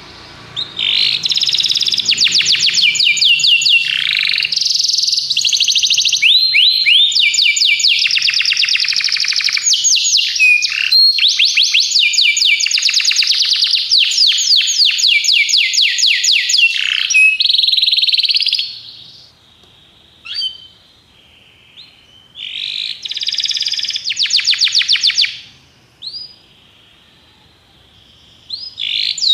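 Canary singing: long runs of rapid, high repeated trills and rolls. The song breaks off about two-thirds of the way through, leaving a few short chirps, then another trill run follows and the song resumes near the end.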